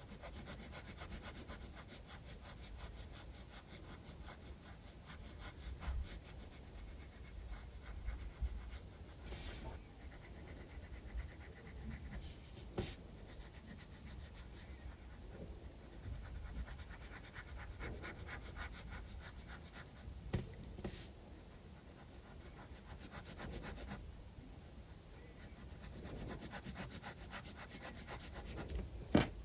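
Graphite pencil shading on sketchbook paper: rapid back-and-forth scratchy strokes. A few light knocks come about a third of the way in and again past the middle.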